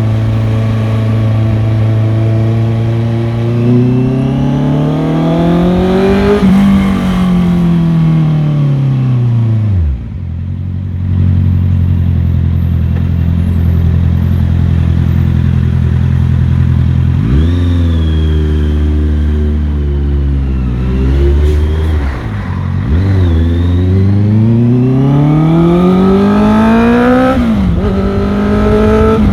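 Motorcycle engine under way, its revs climbing through the gears and falling back off the throttle several times: a long rise and fall in the first third, low steady running in the middle, then another long climb cut off by a gear change near the end.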